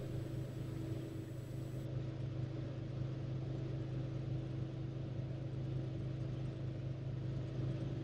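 Turbocharged Cessna 206's six-cylinder piston engine and propeller running steadily at low taxi power: an even low drone with a faint constant tone above it.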